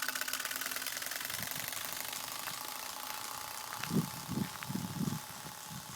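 Turbospoke bicycle exhaust rattling: its plastic card snaps against the turning spokes in a fast, motor-like buzz that fades as the bike rides away. A few short low sounds come about four seconds in.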